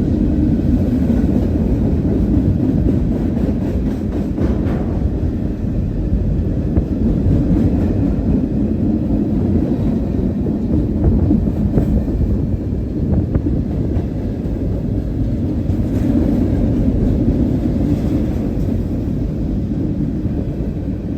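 Freight train rolling past: a steady, loud rumble of wheels on rail with a few sharp clicks scattered through it.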